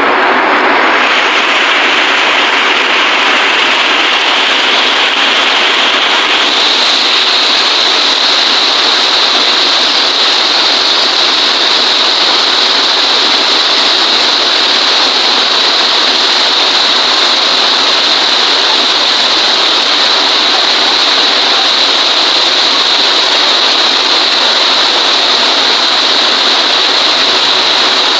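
Heavy rain falling in a steady, loud hiss, which turns a little brighter about six seconds in.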